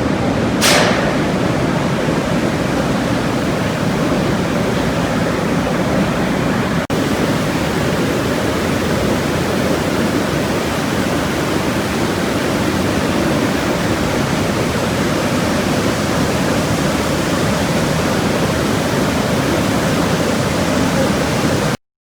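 Box Canyon Falls waterfall rushing in a steady, even roar of falling water, with a brief sharp hiss about a second in; it cuts off suddenly near the end.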